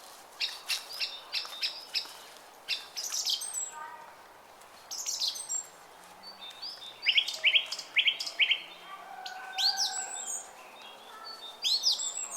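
Several small songbirds chirping and singing over the steady hiss of a flowing brook. A quick run of sharp, repeated chirps comes about half a second in and another around seven seconds in, with lower whistled notes near ten seconds.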